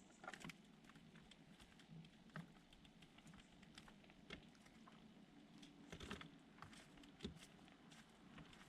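Faint, irregular light tapping and scratching, the sound of small birds pecking and hopping about, with a few slightly louder taps scattered through.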